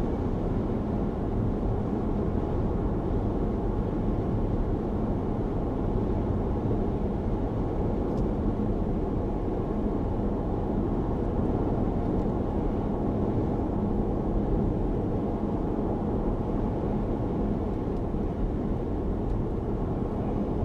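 Steady road and engine noise of a moving car, heard from inside the cabin, with a faint constant low hum.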